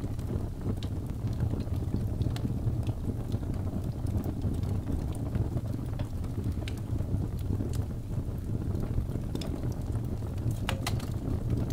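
Log fire burning in a fireplace: a steady low rumble of flames with scattered sharp crackles and pops, a few of them close together near the end.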